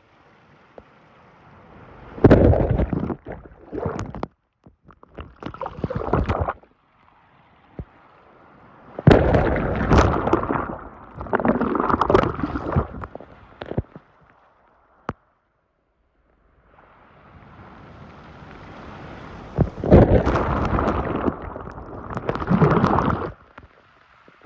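Sea waves breaking on the shore, three times: each swells up, crashes loudly and washes back, with brief lulls between.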